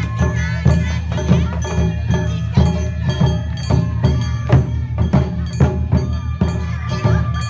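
Japanese festival dance music played live, with drums struck in a steady rhythm under held melodic tones, typical of an Awa Odori ren's band.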